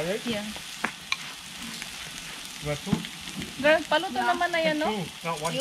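Food sizzling as it cooks, a steady frying hiss, with a few sharp clicks.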